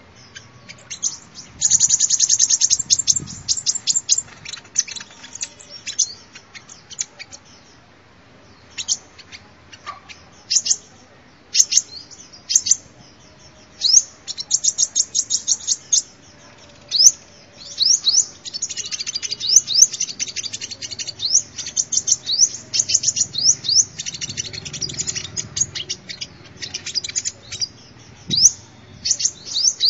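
Sunbird song: high, rapid trills and runs of short chipping notes, coming in bursts with brief pauses, as used for luring sunbirds.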